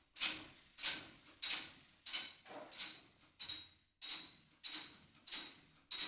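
Metal impacts struck in a steady rhythm, about three every two seconds, each a sharp hit with a short metallic ring. This is the soloed rhythmic metal layer of a designed train sound effect.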